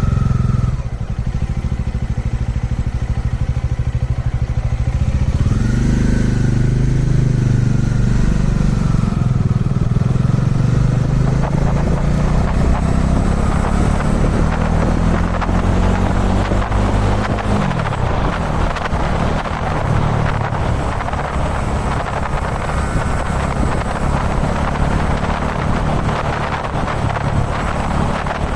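Kawasaki Dominar 400 motorcycle's single-cylinder engine running under way, the revs dropping briefly near the start, climbing about six seconds in and falling again a little past the middle. Wind rushing over the microphone grows louder in the second half.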